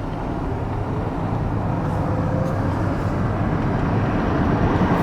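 A steady low rumble of a vehicle that slowly grows louder.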